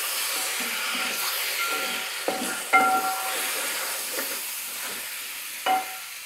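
Raw chicken sizzling in hot masala in a metal uruli as it is stirred with a wooden spoon, with three knocks of the spoon against the pot, the one just before three seconds in ringing briefly.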